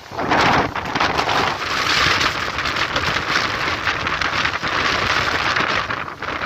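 Gale-force wind gusting with heavy wind noise on the microphone: a surge about half a second in, then a loud steady rushing hiss.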